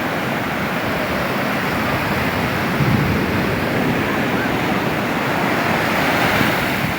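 Ocean surf breaking on a beach: a steady rush of water that swells about three seconds in and again near the end.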